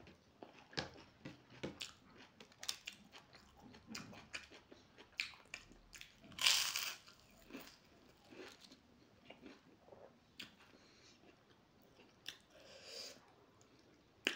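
Close-miked eating: wet chewing with many small mouth clicks, and one loud crunch of roasted papad about six and a half seconds in.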